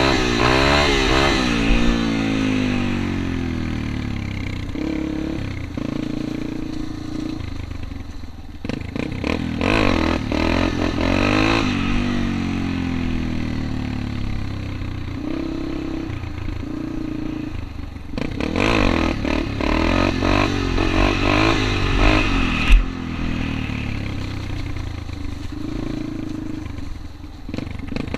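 Motorcycle engine revving hard and easing off in several long surges, its pitch climbing and then falling, as during wheelie runs in second to third gear. A single sharp knock comes about three quarters of the way through.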